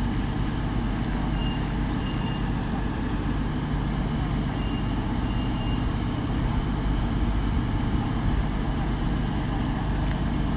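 A diesel train's engine running steadily at the station, an even low rumble. Four faint short high tones come in the first six seconds.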